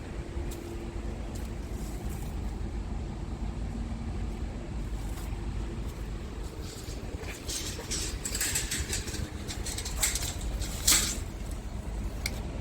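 Scania R400 truck's diesel engine running at a steady low idle. From about seven seconds in come several loud bursts of hissing air from the truck's air system, with a sharp hiss near the end.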